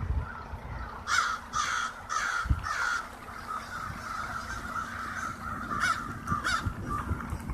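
A large flock of crows cawing overhead, a steady din of many overlapping calls. A run of four loud, close caws comes between one and three seconds in, and two more near the end.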